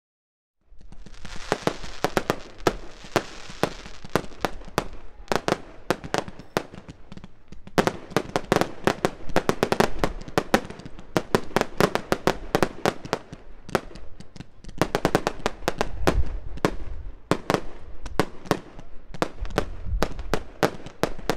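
Fireworks display: a rapid, irregular string of sharp bangs and pops from aerial shells bursting, with deep booms now and then. A hissing crackle runs through the first few seconds.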